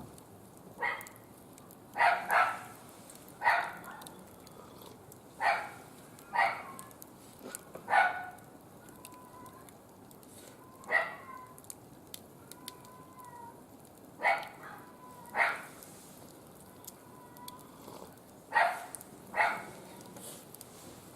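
A dog barking repeatedly, short sharp barks about a second or two apart, several of them in quick pairs.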